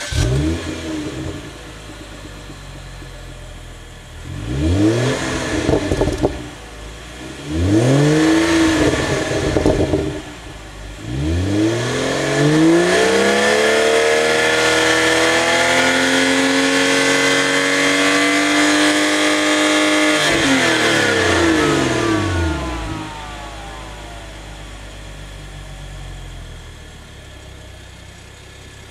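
BMW 335i's turbocharged inline-six through an Akrapovič exhaust, idling and then revved: two short revs, then one long rev held for about ten seconds before dropping back to a steady idle.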